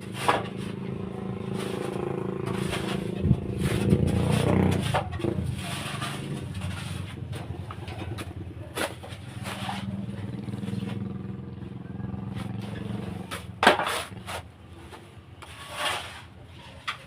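A small engine running, louder in two stretches: during the first few seconds and again from about nine to thirteen seconds. Scattered clicks and knocks sound over it.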